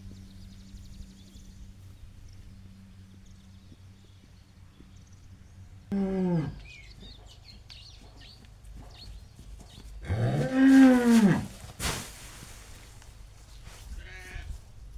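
A cow mooing twice: a short call that falls in pitch about six seconds in, then a longer, louder moo that rises and falls about ten seconds in. A sharp knock follows the second moo.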